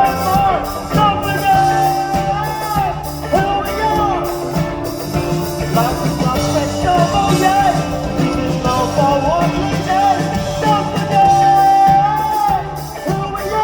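Live rock band playing with a singer. The vocal melody has long held notes, about two seconds in and again near the end, over bass, guitars and a steady drum beat.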